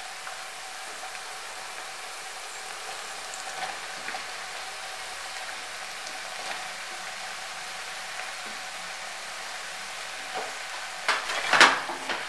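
Small onions, garlic, tomato and brinjal pieces sizzling steadily in hot oil in a kadai. Near the end a spatula stirs and scrapes the pan in a few loud strokes.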